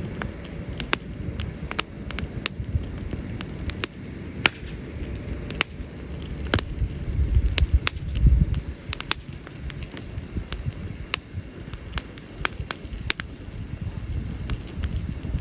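Burning firewood in an outdoor campfire crackling, with sharp, irregular pops scattered throughout over a low rumble that swells about halfway through.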